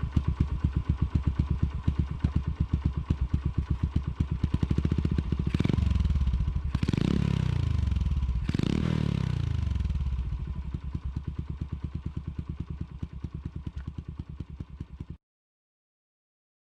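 Customised Honda Super Cub's 88cc bored-out single-cylinder four-stroke engine idling through a Mizumoto Racing L-11 racing muffler in an even, rapid beat. Revved up three times in quick blips a little past the middle, dropping back to idle after each, then the sound cuts off abruptly near the end.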